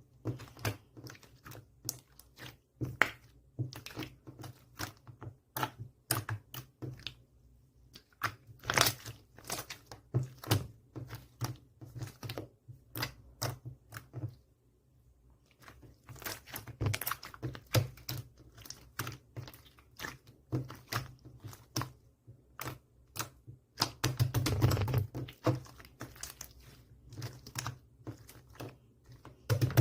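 Clear slime being squished and stretched by hand, making a run of irregular sticky clicks and pops, with a short pause about halfway through.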